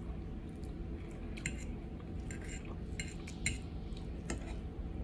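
Eating utensils clicking lightly against a plate, several short separate clinks, over a steady low room hum.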